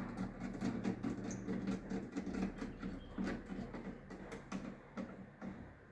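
Plastic miniature circuit breakers being picked through and handled, with a run of irregular light clicks and clatters as the units knock against each other, growing fainter near the end.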